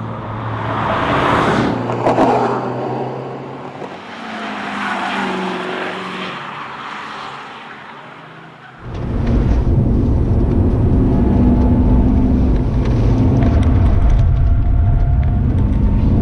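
Cars passing by in rising and fading swells. About nine seconds in there is a sudden switch to the loud, steady low drone of the FGX Ford Falcon XR8's supercharged V8 running at speed.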